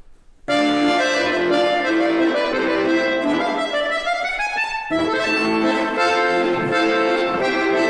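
Live accordion accompaniment for a folk-dance barre exercise. After a brief gap it starts about half a second in, playing a melody over held chords.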